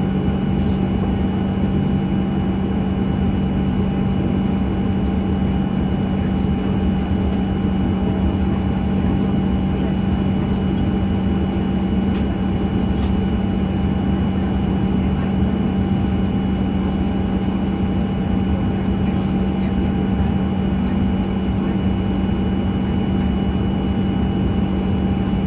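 Steady cabin drone inside a Boeing 737-900 on the ground: a constant low hum with a thin high whine over even rushing air, with no rise or fall in pitch.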